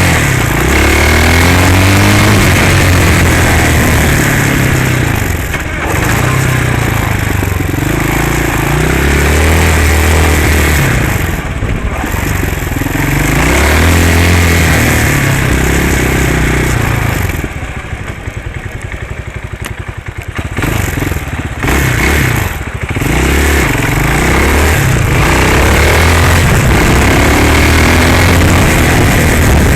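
Hawk 250cc dirt bike's single-cylinder four-stroke engine being ridden. It revs up and drops back again and again as it pulls through the gears. About eighteen seconds in, the throttle is shut for a couple of seconds and the engine falls low before picking up again.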